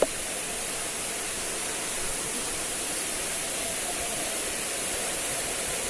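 Steady rushing of a waterfall, an even roar of falling water, with a single sharp click right at the start.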